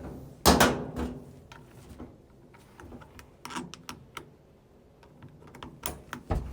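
Knocks and clicks of a dryer's sheet-metal panels and parts being handled and fitted back in place, with the loudest knock about half a second in.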